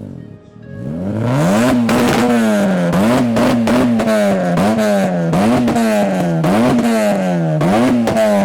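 Car engine revved over and over: the pitch climbs quickly and sags back about once a second, seven times in a row.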